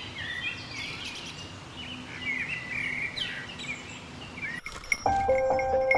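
Wild birds chirping and warbling in quick, varied phrases. About five seconds in, background music begins with repeated, evenly struck piano notes.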